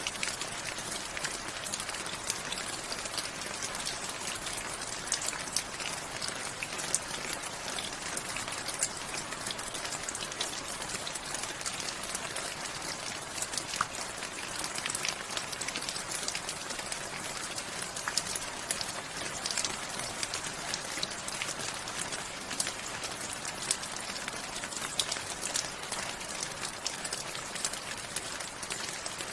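Steady rain falling, a continuous patter with many individual drops ticking on a surface.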